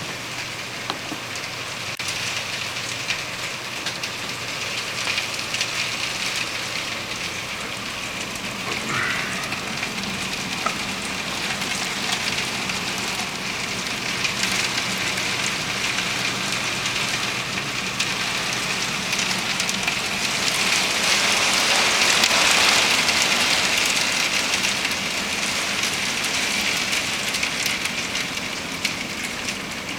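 Heavy rain pouring steadily, swelling louder about two-thirds of the way through.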